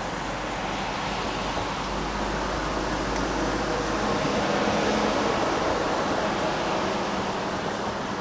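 Steady rain hiss, with traffic on a wet road swelling to a peak about halfway through and then fading.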